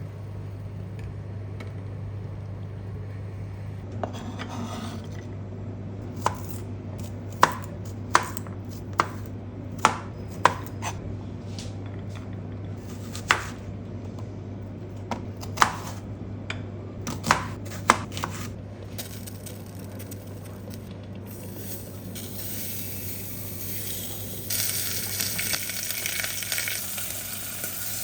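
A knife chopping on a cutting board in about a dozen separate, irregular strokes. Food then starts sizzling in a hot pan over the last few seconds. A steady low hum runs underneath.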